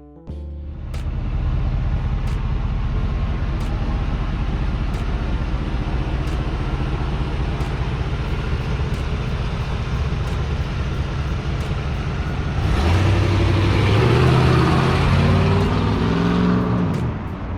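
1988 Chevrolet Blazer's 5.7-litre throttle-body-injected V8 starting and settling into a steady idle. Near the end it is revved once, the pitch rising and holding for a few seconds before falling back to idle.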